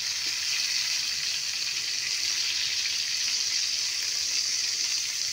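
Tomato chunks, cashews and green chillies sizzling steadily in hot vegetable oil in a frying pan as they are sautéed.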